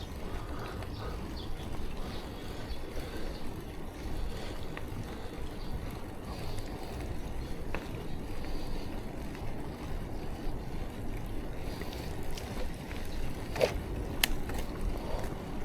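Steady rumble of wind on the camera microphone and tyre noise from a bicycle being ridden, with a couple of sharp clicks near the end.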